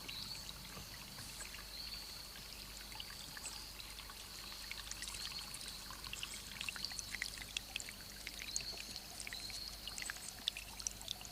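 Water trickling and plinking in a small forest stream, with a steady high trill running behind it that breaks off briefly every couple of seconds.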